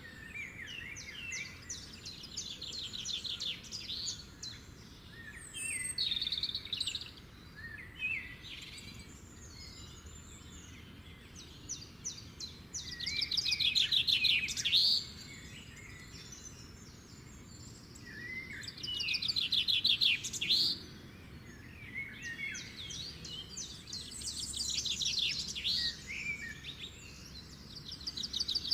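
Pet birds chirping and twittering in quick runs of high notes, with two louder, busier bouts about halfway through and again a few seconds later.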